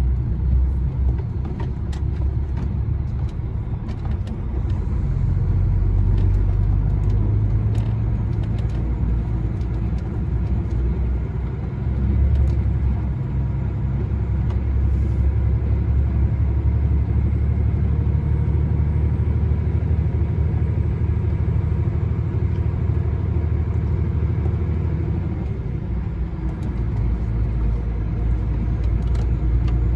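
Articulated lorry on the move, heard from inside the cab: a steady low engine and road rumble that swells briefly about twelve seconds in, with faint ticks now and then.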